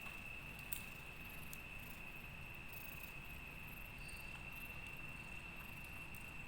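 A night insect, such as a cricket, trilling on one steady high note over faint background hiss, with a couple of faint clicks in the first two seconds.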